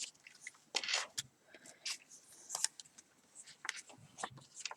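Paper and card pages of a handmade journal being handled and turned: a run of short, irregular rustles and light taps, with a louder rustle about a second in.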